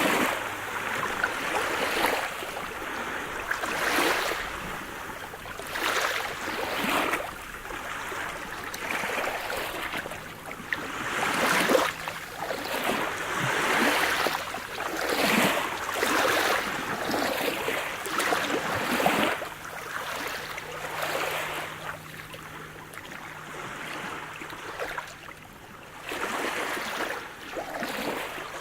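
Sea surf: small waves washing in and draining back, swelling and fading about every two seconds, easing a little in the last third.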